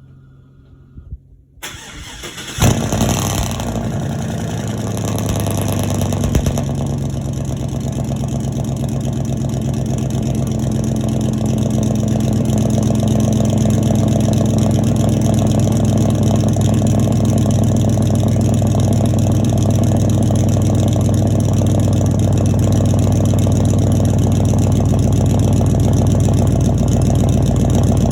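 A 2004 Chevy Silverado 1500's 5.3-litre V8, straight-piped with no catalytic converters, cranks briefly and catches with a loud bang about two and a half seconds in. It runs at a fast idle for a few seconds, then settles into a steady, loud idle.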